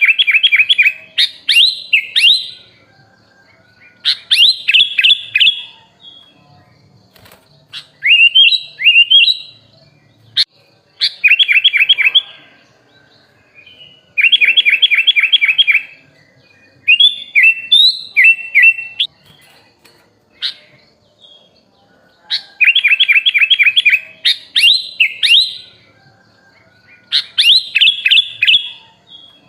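Sooty-headed bulbul (kutilang) singing: about nine short, loud phrases of quick chattering notes and slurred whistles, one every two to three seconds with short pauses between.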